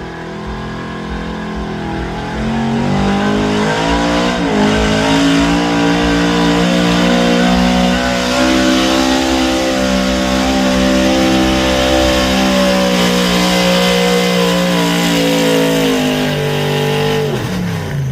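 Pulling truck's engine at full throttle dragging the weight sled. The revs build over the first couple of seconds, dip briefly about four seconds in, hold high and steady, then fall away near the end.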